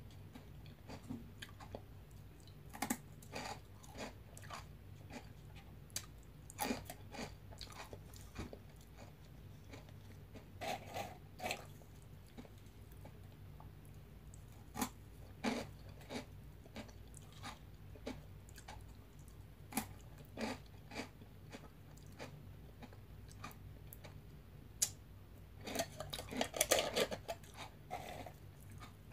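Close-miked chewing and crunching of veggie straws, some dipped in yogurt: scattered crisp bites and crunches, with a denser run of louder crunching near the end.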